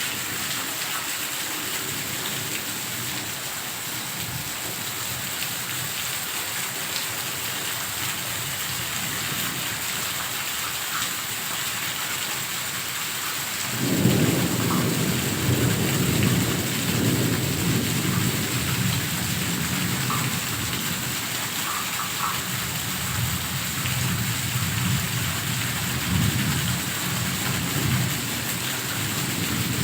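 Heavy rain falling steadily. About fourteen seconds in, thunder breaks with a sudden loud crack and rumbles on for many seconds, swelling and fading.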